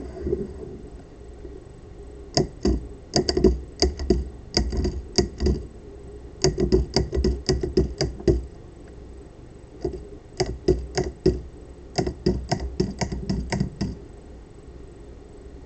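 Solenoid of a 3D-printed pulse-propulsion device clicking rapidly as it fires pulse after pulse, in three runs of sharp clicks with short pauses between.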